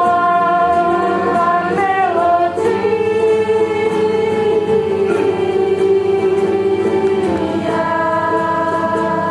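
Music: singing voices holding long notes, moving to a new note about two and a half seconds in and again near the end.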